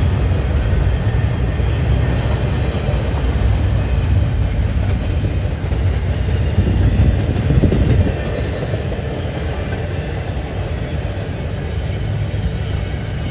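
Double-stack container cars of a CN intermodal freight train rolling past: a steady low rumble of steel wheels on the rails, easing a little about eight seconds in.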